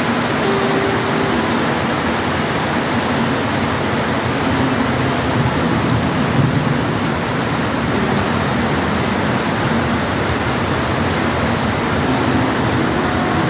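Steady rain, a dense, even hiss with no letup, with a few faint short tones now and then behind it.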